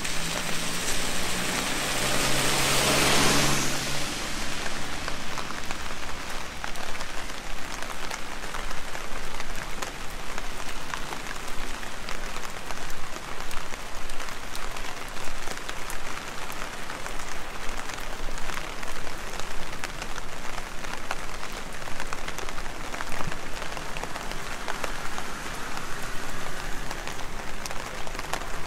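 Heavy rain falling steadily, a dense haze of fine drop ticks. In the first few seconds a car passes on the wet road, its tyre hiss and a low engine hum swelling and then fading.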